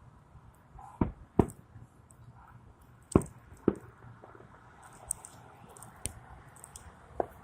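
Fireworks exploding in a series of sharp bangs. Two pairs come about half a second apart, then two weaker bangs near the end.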